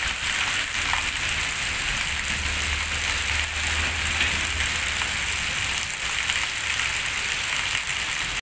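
Heavy rain pouring steadily onto a wet street: a dense, even hiss, with a low rumble underneath that swells in the middle.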